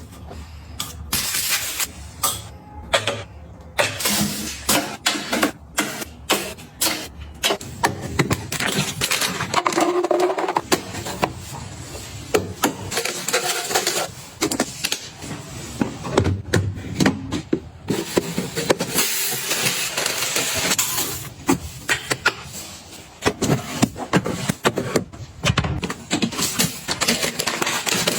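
Close-up handling sounds of groceries and containers: many light clicks, taps and knocks as items are picked up and set down, mixed with rustling and scraping of packaging.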